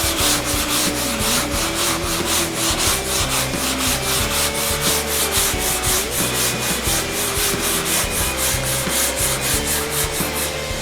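Sanding block with 80-grit paper worked by hand over body filler on a car's front fender, in quick, even back-and-forth strokes of about five a second. This is the rough leveling stage before guide coat and 150-grit finishing.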